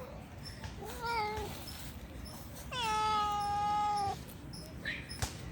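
Hungry stray cat meowing for food: a short wavering meow about a second in, then a longer, louder meow that drops in pitch at its start and is then held steady for about a second.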